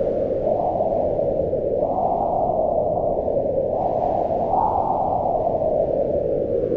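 Howling wind: a steady, loud rush whose pitch slowly rises and falls in long swells, peaking about two seconds in and again near the middle.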